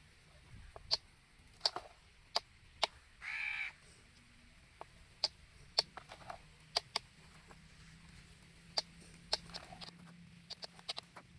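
One short harsh call, like a crow's caw, just over three seconds in, amid scattered light clicks and taps.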